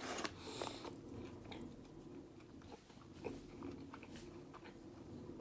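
A person chewing a mouthful of KFC Zinger burger, a crispy fried chicken fillet in a sesame bun: a crunchy burst in the first half-second, then faint scattered clicks of chewing.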